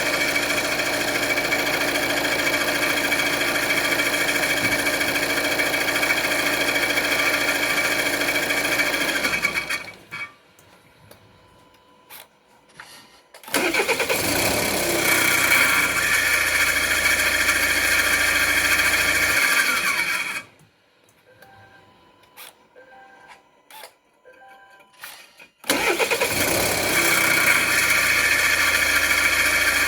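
2017 Volvo V90's engine, heard from under the bonnet, running, switched off about ten seconds in, then started again; this is repeated, with a second stop and restart near the end. In the quiet gaps come faint short beeps. The running engine carries the noise that the owner calls a bad sound under the bonnet.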